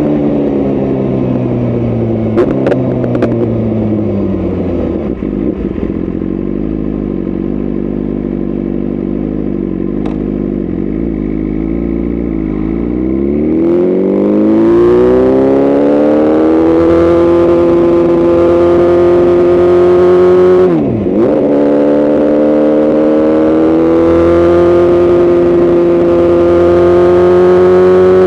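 BMW S1000RR's inline-four engine with a new tune, winding down as the bike slows, with a few crackles from the exhaust, then running low and steady. About halfway through it revs up hard, and it holds high revs, with a quick dip for an upshift about three-quarters of the way in.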